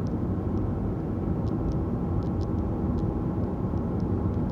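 Car driving slowly, heard from inside the cabin: a steady rumble of engine and tyres, with a few faint ticks.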